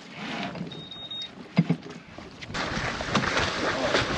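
Wind and water noise aboard a small sailboat under way, getting louder and fuller after about two and a half seconds. A short high beep sounds about a second in, and a single sharp knock about a second and a half in.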